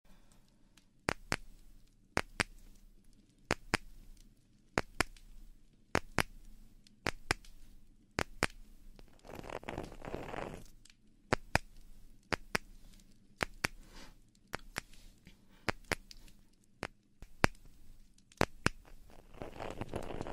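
Close-miked ASMR trigger sounds: sharp, crisp clicks, mostly in quick pairs about once a second, with a brief soft rustle near the middle and more rustling near the end.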